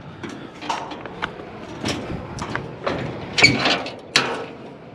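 Scrap metal items knocking and clattering as they are shifted and set down on a trailer: a string of irregular knocks, the loudest a little past three seconds in and again just after four.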